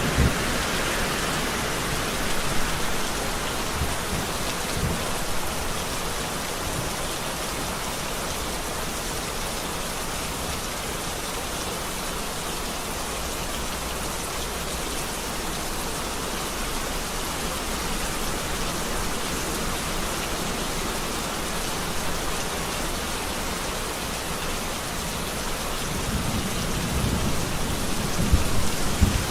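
Steady rain falling in a thunderstorm, with thunder rumbling in the first moments and again, louder, near the end.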